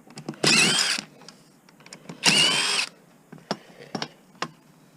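Power drill with a nut-driver bit run in two short bursts of about half a second each, its motor whine rising as it spins up, driving out fasteners. A few light metallic clicks follow.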